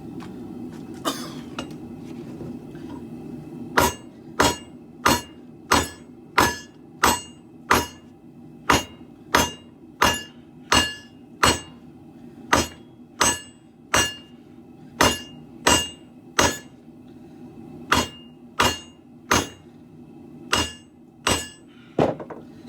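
Hand hammer striking steel on an anvil while forging a sword blade: one blow about a second in, then from about four seconds a steady run of blows, roughly one and a half a second, each with a short metallic ring, broken by brief pauses. A steady low hum runs underneath.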